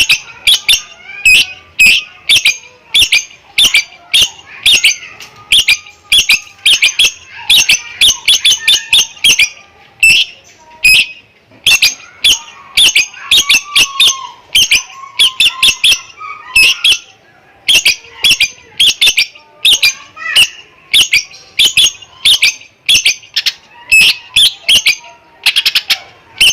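Green leafbird (cucak ijo) singing loudly, rapid clusters of sharp high chirps repeated over and over with brief pauses, its song filled with mimicked lovebird chatter.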